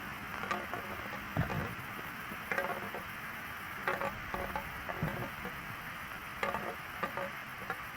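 Refrigerator compressor being worked loose and handled: irregular soft clicks and knocks, about seven over several seconds, over a steady hiss.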